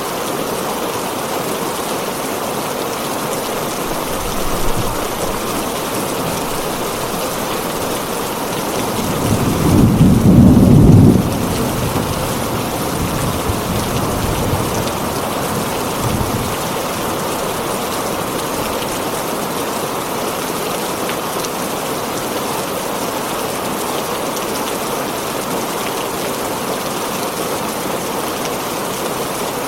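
Heavy rain drumming steadily on a tin roof. A rumble of thunder builds about nine seconds in, peaks, then rolls away over the next few seconds; a fainter low rumble comes a few seconds earlier.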